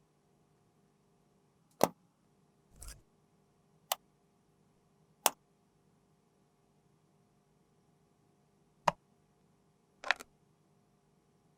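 Five sharp, separate clicks of small hard objects, irregularly spaced, with two softer brief scuffs among them over a faint steady hum.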